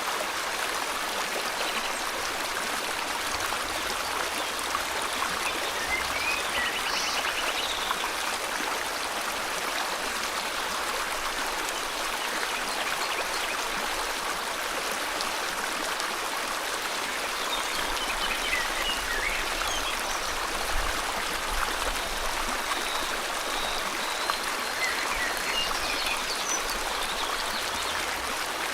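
River water flowing steadily, with a few faint bird chirps and a short trill heard now and then over it.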